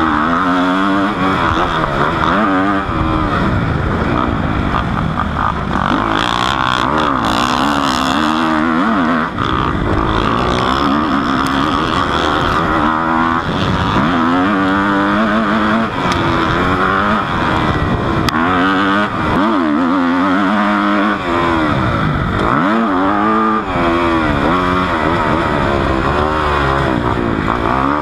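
Dirt bike engine revving up and down, over and over, as it is ridden hard around a motocross track, heard from a camera mounted on the rider's helmet under the visor.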